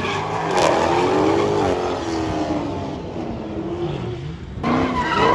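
High-performance car engine revving hard, its pitch rising and falling. The sound eases off, then a new loud surge starts suddenly near the end.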